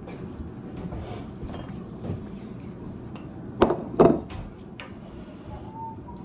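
Kitchen dishes and utensils clinking, with two loud sharp clanks close together about three and a half and four seconds in.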